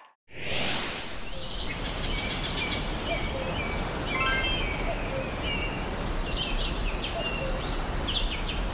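Forest ambience: many birds chirping and calling over a steady rushing background, opened by a brief whoosh.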